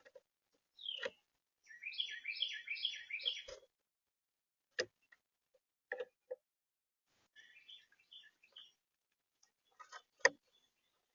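A songbird singing a quick phrase of repeated down-slurred notes, then a softer phrase later. Several sharp taps or knocks come between and after the phrases, the loudest near the end.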